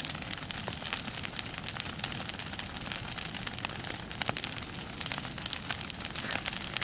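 Bonfire crackling, with irregular sharp pops and snaps over a steady hiss.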